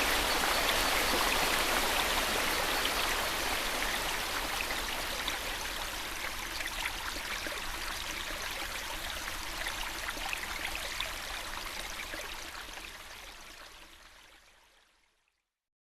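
Steady rushing of running water, like a stream, full of fine splashing crackle; it fades out over the last few seconds to silence.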